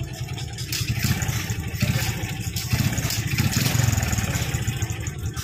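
An engine running with a fast low pulse, its speed and loudness rising through the middle and easing off near the end.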